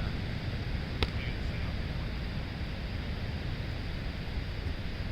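Wind buffeting the microphone as a steady low rumble, with one sharp knock about a second in.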